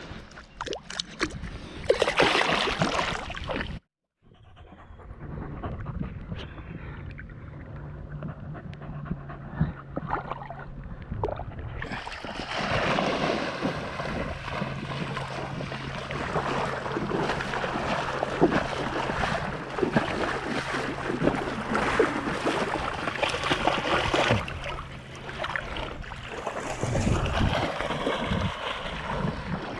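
Water splashing and rushing around a kayak, with a louder stretch of splashing from about twelve seconds in. A steady low hum runs underneath for most of it, and the sound drops out briefly about four seconds in.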